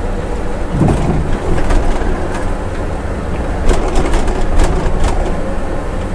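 Inside the cab of a Scania bus descending a mountain grade in third gear: a steady low drone of the engine held on the engine brake, with road noise. A heavier thump about a second in, then sharp clicks and rattles near two seconds and again from about four to five seconds.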